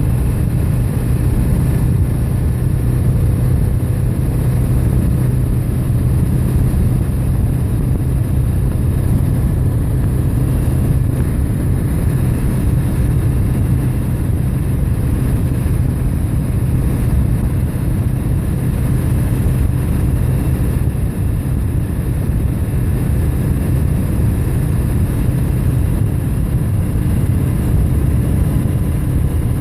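Motorcycle engine running at a steady cruise, an even hum with no change in revs, under a constant rush of noise.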